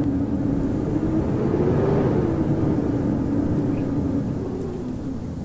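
Howling winter wind: a steady low rumble with a wavering, moaning howl that swells and rises a little about two seconds in.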